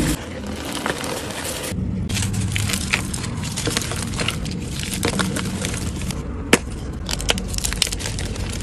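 Blocks of gym chalk being crushed and crumbled, with dense, irregular crunching and crackling and one sharper, louder snap about six and a half seconds in.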